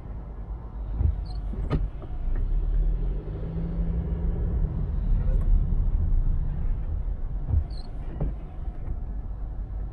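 A car driving, with a steady low road and engine rumble that swells to a hum in the middle. Two sharp knocks come about six seconds apart.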